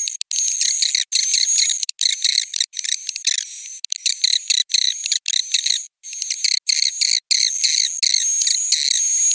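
Swiftlet roosting ('inap') lure call: dense, rapid, high-pitched twittering chirps and buzzing trills of swiftlets, broken by several brief, abrupt gaps where the looped recording is spliced. It is the kind of sound played from speakers in a swiftlet house to draw the birds in to roost.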